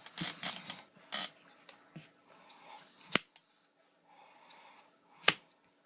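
Trading cards being handled on a table: short rustles and slides, then two sharp card snaps about two seconds apart.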